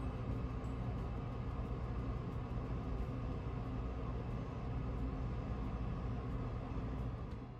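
Steady low mechanical hum and rumble that holds unchanged, with no clear rise or fall.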